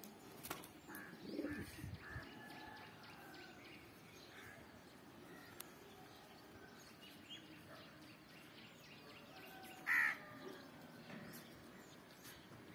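Birds calling: faint scattered calls and chirps, with one short, loud call about ten seconds in.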